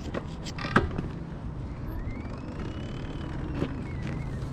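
Sur Ron electric dirt bike being ridden: a faint motor whine rises and then falls in pitch over a couple of seconds, over a steady low rumble, with a few sharp knocks and clicks in the first second.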